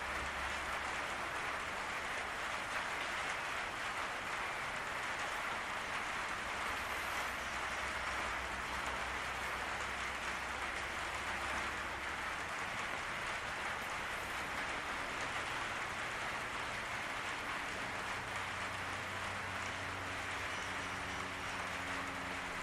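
Steady rain falling on a patio roof, an even hiss of drops.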